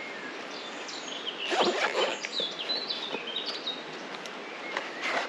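A small songbird singing a quick run of short, high, stepping notes against steady woodland background. It is preceded about a second and a half in by a cluster of louder rustles and knocks, with another sharp knock near the end.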